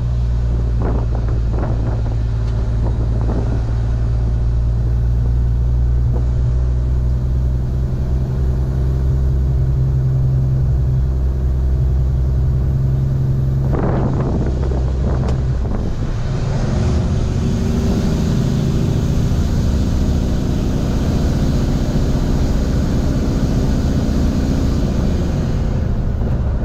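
Semi-truck's diesel engine running under load, a steady low drone. About halfway through there is a short burst of noise and the engine note changes, then its pitch climbs slowly.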